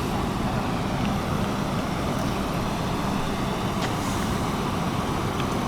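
Steady low rumble of vehicle engines and road traffic, even throughout with no distinct events.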